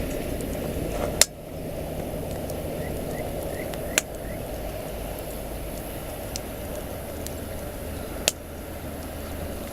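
Wood campfire burning with a steady low rumble, light crackling and three sharp pops, the loudest about a second in.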